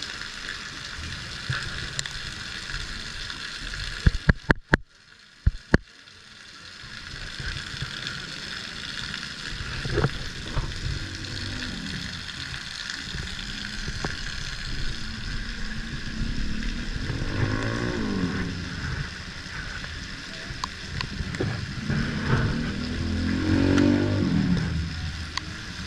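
Riding a motorcycle in heavy rain: a steady hiss of rain and wind on the microphone over the low rumble of the ride, with the engine rising and falling in pitch as it revs, most clearly near the end. A few sharp knocks about four seconds in, followed by a brief dip in the sound.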